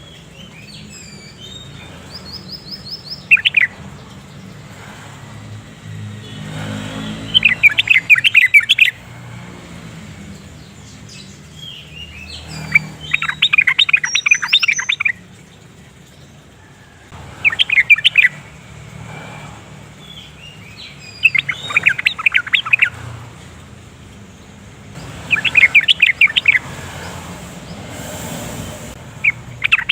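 Yellow-vented bulbul singing: repeated bouts of rapid, bubbly chattering notes, each lasting a second or two, with pauses of a few seconds between them.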